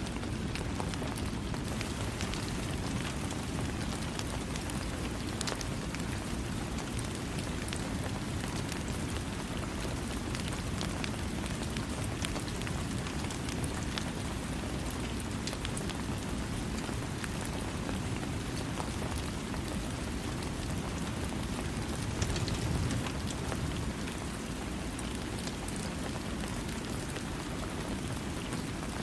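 Steady rain falling, with a low even rush and scattered individual drops tapping; no thunder. It swells slightly about two-thirds of the way through.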